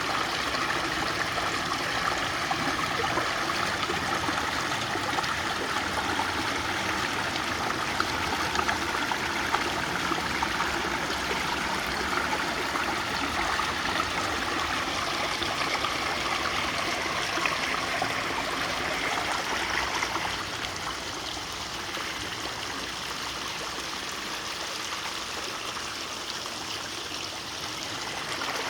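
Steady rushing of a flowing stream, easing a little about twenty seconds in and picking up again near the end.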